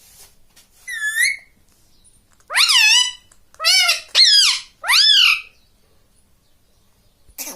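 Pet ring-necked parakeet squawking: a short call, then four loud calls in quick succession, each rising and falling in pitch.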